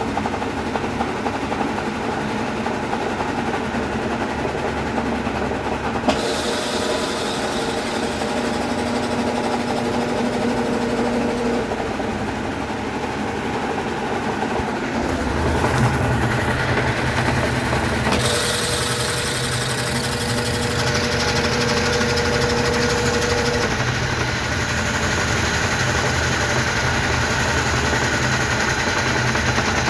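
Consul Facilite CWG11 top-load washing machine in its wash stage: the motor running and the load being agitated in water. It is a steady mechanical hum that shifts a few times, with a stronger low hum from about halfway through and more hiss a few seconds later.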